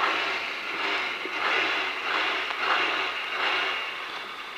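Rally car's engine idling on the start line, heard inside the cabin, its sound swelling and dropping about once a second.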